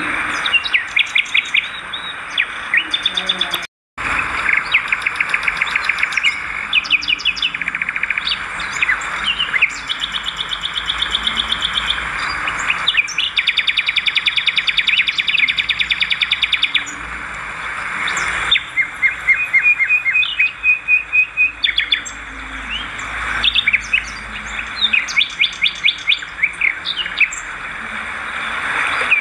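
Edible-nest swiftlets chirping in rapid, repeated trills, the sound cutting out completely for a moment about four seconds in.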